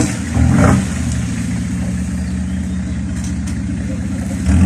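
1967 Ford Fairlane 500's engine idling with a steady low beat, blipped up twice in quick succession in the first second and again right at the end.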